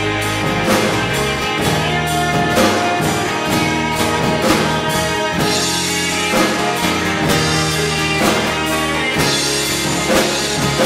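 Country-rock band playing an instrumental passage between sung lines: drum kit keeping a steady beat under guitar and sustained chords.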